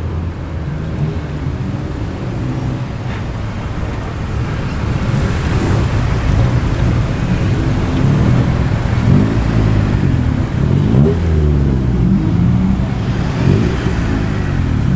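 Car engines running as cars drive past at low speed. The sound grows louder about a third of the way in, and the engine note rises and falls several times in the second half as the cars rev and move off.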